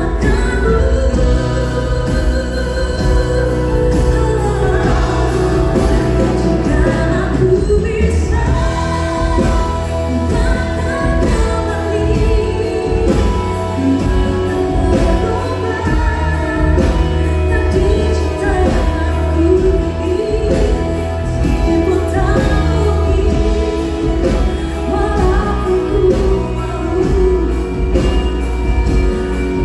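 Live pop band performing a song with a lead singer over bass, drums and keyboards, heard through the mixing desk's feed.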